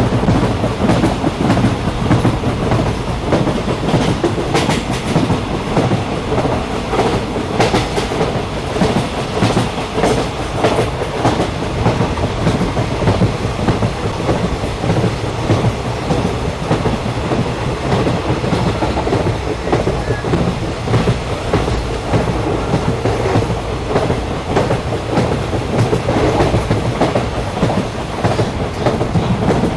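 Steady rumble and rattle of a moving train heard from inside a carriage, with occasional clacks from the wheels running over the track.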